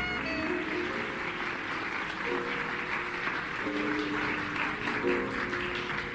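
Audience applauding at the end of a jazz number, with a few sparse held instrument notes sounding under the clapping.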